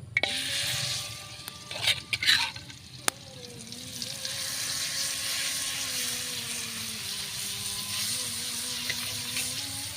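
Small pipit birds frying in hot oil in a pan: a steady sizzle that starts suddenly, with a few loud clatters of a utensil against the pan about two seconds in.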